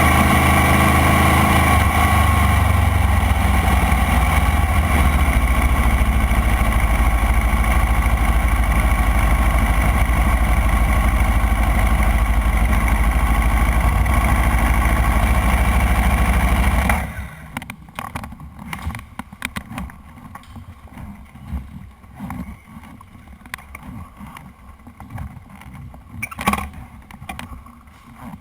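Motorcycle engine running steadily, dropping to a lower, steady idle about two seconds in, then cut off abruptly about two-thirds of the way through. After that, only faint low rumbles and a single knock near the end.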